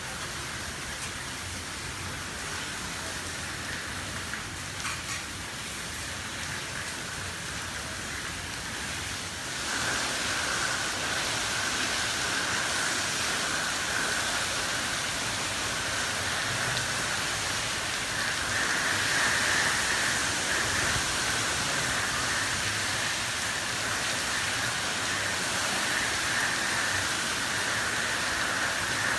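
Heavy hurricane rain driven by wind through a screened pool enclosure, a steady rushing hiss that gets louder about ten seconds in as a heavier band of rain blows through.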